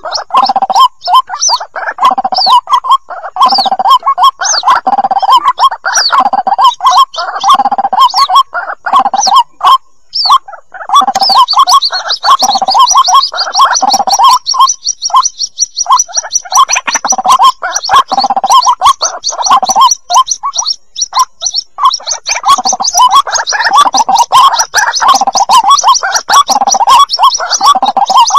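Recorded calls of white-breasted waterhen chicks, played as a lure for trapping: a dense, loud run of rapidly repeated calls with a lower note about once a second. About a third of the way in, a high, fast trill starts over them and runs on.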